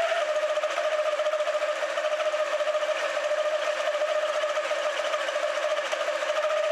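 Honda Spacy 250 Freeway scooter's single-cylinder four-stroke engine running steadily with a fast, even mechanical chatter.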